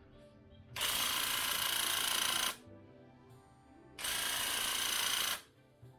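Paint spray gun spraying cabinet doors in two long hissing passes, each about a second and a half, with a short pause between them.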